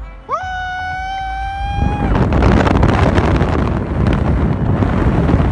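Loud wind rushing and buffeting over the microphone, as in a moving car. Before it, a high held tone rises quickly and holds for about a second and a half near the start.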